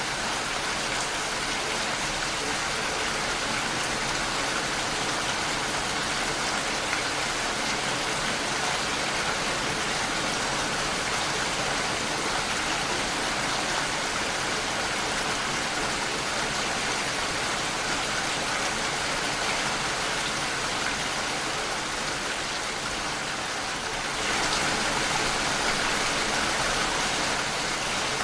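Steady rain against a window pane, a dense, even hiss of drops. It gets slightly louder about four seconds before the end.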